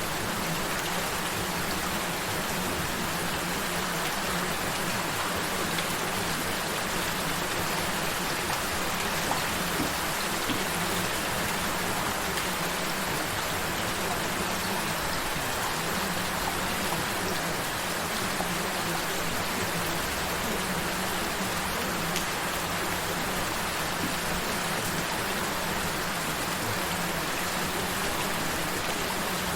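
Steady, even rain falling on a surface, with a low steady tone running underneath it.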